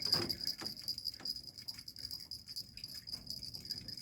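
Insects trilling steadily in a high, continuous tone, with a few faint knocks.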